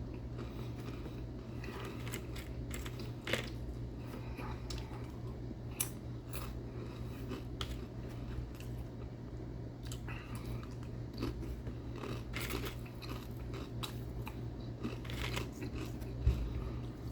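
A person chewing food, with many short wet mouth clicks over a steady low hum, and a single knock near the end.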